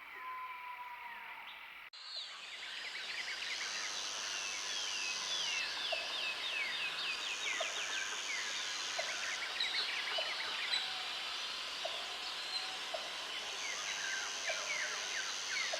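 Many birds chirping and trilling together in a dense chorus, which starts abruptly about two seconds in after a single short whistled note. A steady high buzz comes and goes three times over the chorus.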